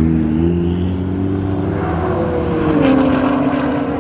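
Car engines running at speed with a steady drone that shifts slowly in pitch. About three seconds in the pitch drops and settles to one steady lower tone, as the engine eases off after the pull.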